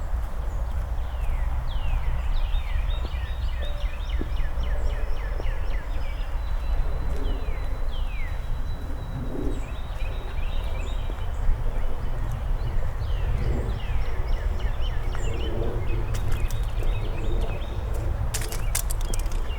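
Several songbirds chirping and singing, with many quick falling notes and one thin held high note, over a steady low rumble. A few sharp clicks near the end.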